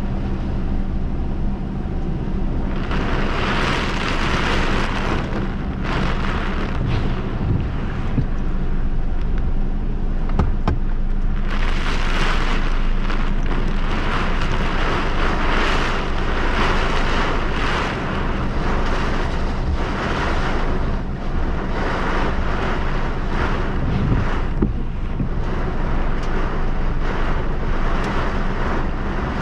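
Heavy rain beating on a car's windshield and roof, heard from inside the cabin, swelling and easing in waves. Under it runs the steady low hum of the car's engine.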